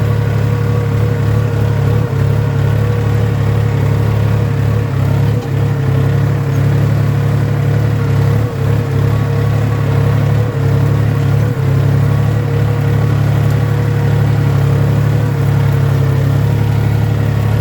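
Tractor engine running steadily while plowing a field, a continuous low drone with brief dips.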